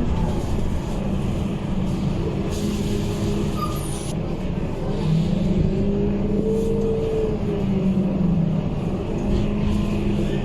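Scania K230UB bus running, its engine and loud radiator cooling fan making a steady hum with a whine that rises and falls about six seconds in.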